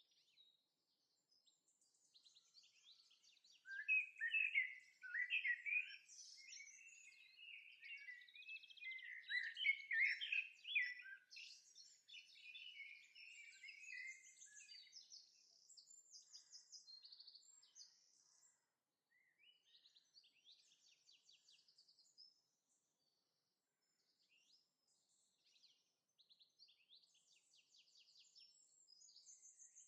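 Several songbirds singing and calling in a forest, in quick chirps and trills, loudest a few seconds in, then thinning to faint, scattered chirps with a short lull past the middle.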